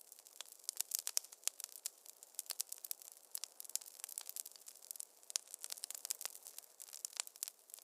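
Wood fire crackling in a fireplace: dense, irregular sharp pops and snaps over a faint hiss.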